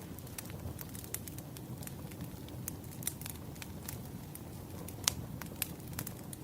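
Wood fire crackling: irregular sharp pops and snaps over a low, steady rumble of burning logs, with one louder pop about five seconds in.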